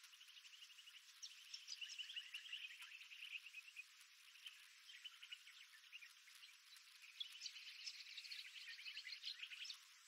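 Several birds singing at once: faint, overlapping fast trills and chirps in high, thin notes.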